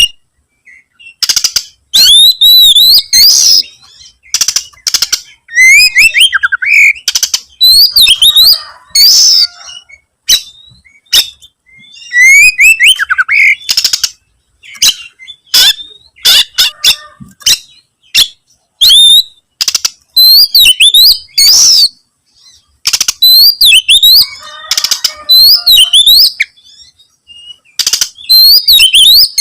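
Oriental magpie-robin singing loudly and continuously in bursts of varied whistled phrases with quick up-and-down glides and sharp notes, separated by short pauses.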